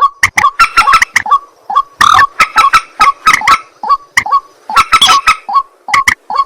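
White-breasted waterhen (ruak-ruak) calling: loud, rapidly repeated short harsh notes, several a second, coming in runs with brief pauses between them.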